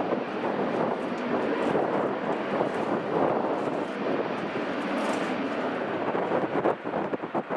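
Airliner engines running as a steady rushing noise, with wind buffeting the microphone near the end.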